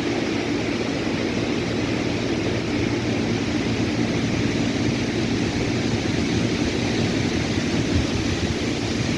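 Wind blowing steadily through trees, with a low rumble from wind on the microphone.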